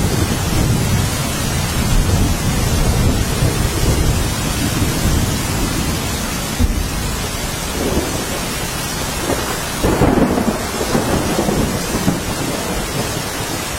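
Steady heavy rain with thunder rumbling low beneath it, and a sharp crack about halfway through.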